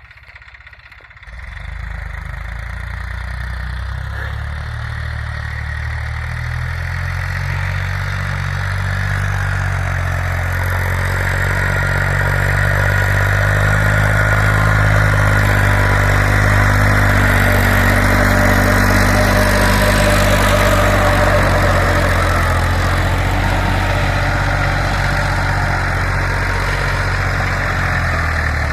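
Tractor diesel engine running steadily. It comes in suddenly about a second in and grows louder, loudest through the middle.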